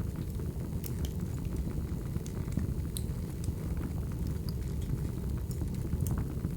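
Wood fire burning: a steady low rumble from the flames with scattered sharp crackles and pops from the burning logs. A few louder pops come about a second in, around the middle and near the end.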